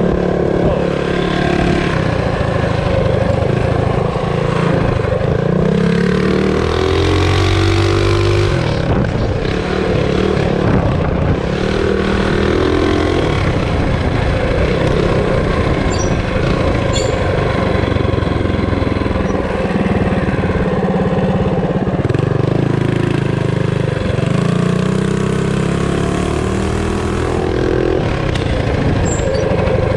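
Loud minibike single-cylinder engine running under throttle, its pitch rising and falling several times as it revs up and eases off. The exhaust header is loose after a bolt came out.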